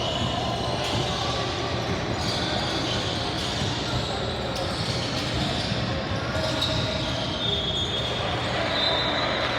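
A basketball bouncing during a game in a gym, over background chatter from people in the hall, with a few thin high squeaks in the second half.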